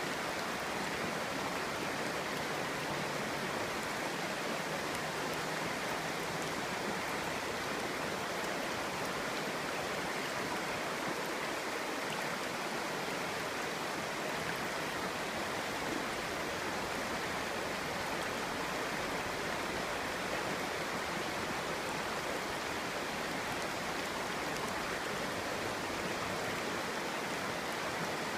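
Clear stream burbling over stones, a steady even rush of flowing water.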